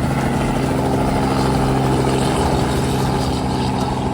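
Helicopter engine and rotor running with a steady low hum that holds level throughout.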